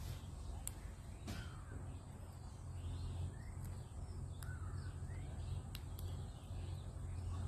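Harsh, caw-like bird calls over a steady low hum, with a few short sharp ticks.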